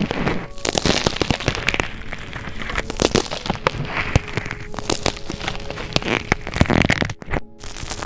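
Slime being squeezed and worked, with dense crackling and popping of trapped air. The sound breaks off for a moment about seven seconds in.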